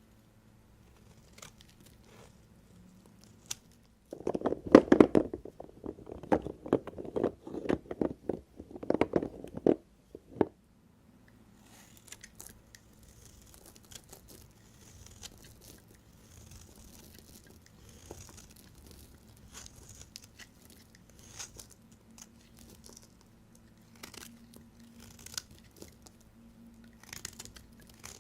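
Knife cutting through dry bar soap with dense crunching, loudest from about four to ten seconds in. Afterwards come quieter scrapes and light clicks.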